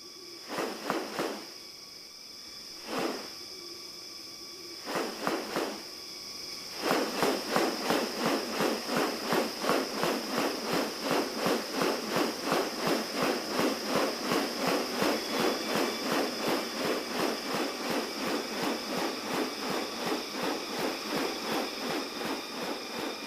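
Rainforest insects droning at one steady high pitch. A few short rasping strokes come in the first six seconds, then from about seven seconds in a fast, even rasping rhythm of about three or four strokes a second.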